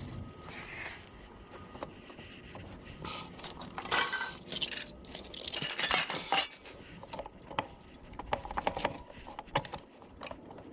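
Small metal parts and tools clinking and scraping against each other as they are handled, with a louder cluster of clinks about four seconds in and another about six seconds in.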